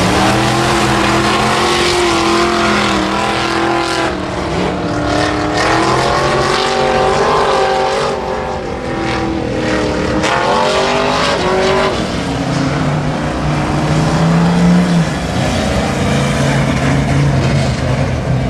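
Midwest Modified race car engines running on the dirt oval, several at once, their pitch rising and falling as the drivers get on and off the throttle.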